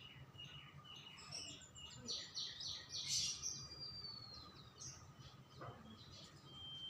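Songbirds chirping and whistling: runs of quick high chirps, a long falling whistle a little past the middle, and a steady held whistle near the end.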